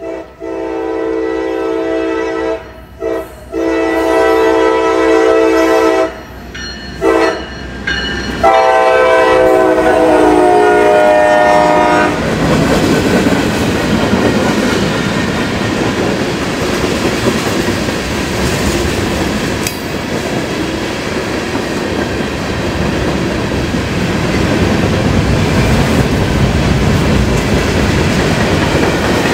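A diesel locomotive's air horn sounds a series of blasts, some long and some short, for about the first twelve seconds. After that the train rolls steadily past, with its wheels clacking over the rail joints.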